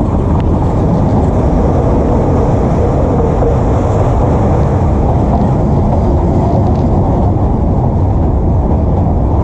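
Nilgiri Mountain Railway toy train running: a steady, loud low rumble of the carriage.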